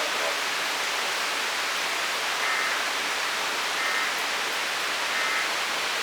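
Torrential rain pouring steadily. Three short electronic beeps sound about a second and a half apart near the middle, most likely from a weather radio.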